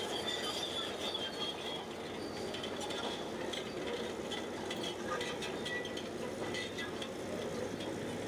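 Bulldozer at work: a steady running noise with light metallic clinks and faint high squeals, typical of steel tracks and undercarriage moving.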